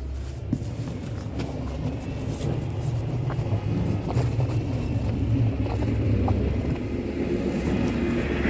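Motor vehicle engine rumbling steadily, slowly growing louder as it comes closer.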